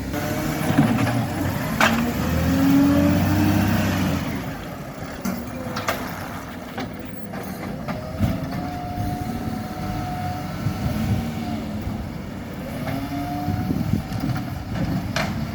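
Garbage truck working: its engine and hydraulics rise and fall in pitch over and over as the revs climb and drop, with a few sharp metallic knocks.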